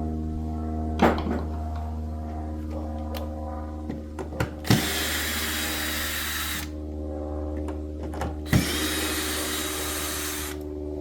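A power tool run in two bursts of about two seconds each, a hissing whir, each burst starting with a sharp knock. Under it a steady hum runs throughout, with another knock about a second in.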